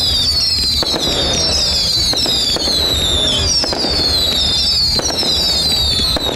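Fireworks display: overlapping high whistles that fall in pitch, one after another, over repeated bangs and crackling.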